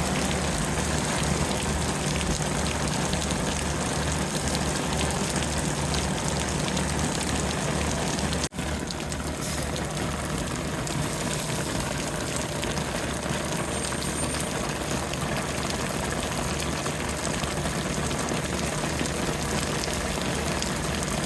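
Steady heavy rain falling, with a fire engine's diesel engine running low underneath. The sound cuts out for an instant about eight seconds in.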